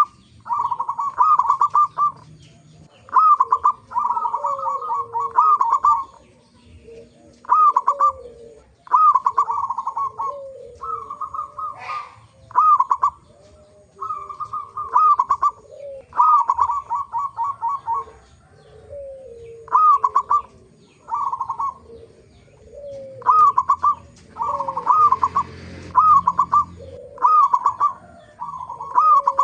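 Zebra doves cooing: short phrases of quick staccato notes repeating every second or two, with a second, lower gliding coo overlapping them, as in a lure call to set other zebra doves singing.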